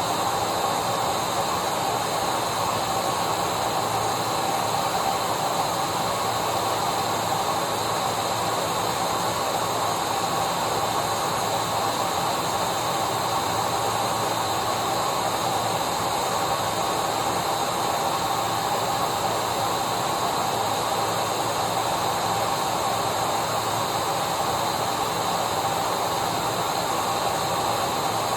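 Vacuum cleaner running steadily: an even rush of air with a constant motor whine, holding the same pitch and level throughout.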